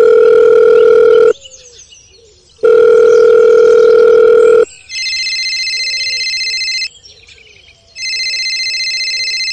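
Telephone ringing tones: two long, loud, low beeps, then two long, higher-pitched rings, each about two seconds with short pauses between them, as heard while a call is placed.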